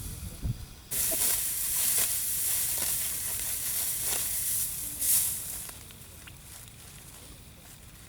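Dry wheat stalks rustling and crackling as they are handled, a dry hissing rustle that starts abruptly about a second in and dies down past the middle.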